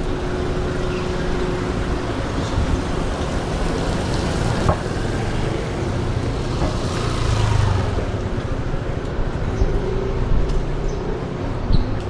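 Street traffic: vehicles running and passing on a city road, with one passing louder about seven seconds in.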